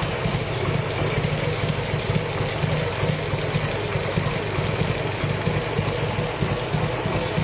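Harley-Davidson Sportster XL1200's air-cooled V-twin idling steadily through its stock European-market exhaust, a rapid low pulse with no revving.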